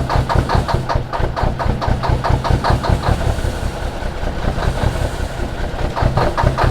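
A diesel engine idling: a steady, regular chugging pulse of several beats a second.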